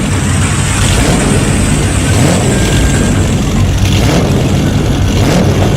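Heavy bulldozer diesel engine running steadily and loudly, a low engine hum under a dense mechanical rumble.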